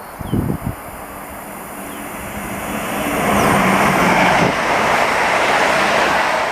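A train running past close by: its rumble and rail noise build over about two seconds to a steady loud run, with a low engine note under it. A couple of low thumps come just before the noise begins.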